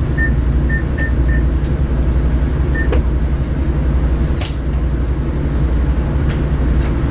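Diesel railcar running along the line, heard from inside as a steady low rumble. About four short high beeps come in the first second and a half, and a brief high metallic jingle comes about four seconds in.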